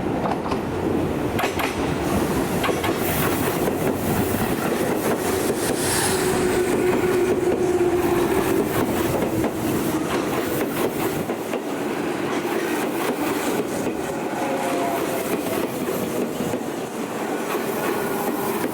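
Electric commuter train running past on the Tobu Tojo Line: a steady rumble with wheels clicking over rail joints and a continuous hum.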